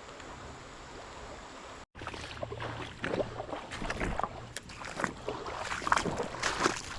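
Faint steady running creek water, then a person moving through the creek: irregular splashing and sloshing steps in shallow water.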